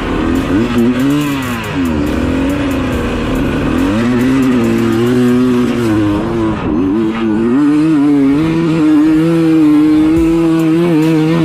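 Dirt bike engine sound revving up and down, its pitch dipping and rising several times, then holding a fairly steady high rev from about two-thirds of the way through.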